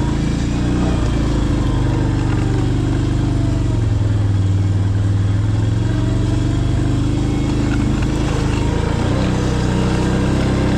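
Small vehicle engine running steadily, its pitch shifting slightly up and down a few times.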